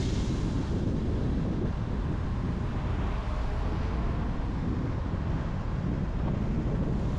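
Steady road noise of a car travelling on a highway: an even, low tyre and engine rumble with a light hiss of air over it.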